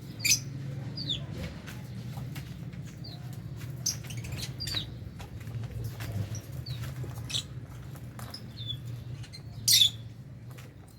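A flock of lovebirds in an aviary chirping: scattered short, sharp calls that dip in pitch, the loudest just after the start and again about ten seconds in, over a steady low hum.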